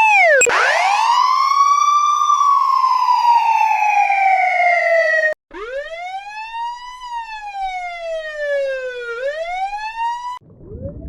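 Police car sirens cut one after another: a wail that rises and then slowly falls, breaking off about five seconds in, then another wail that rises, falls and sweeps back up before stopping near the end. A quieter rising siren then starts over low rumbling noise.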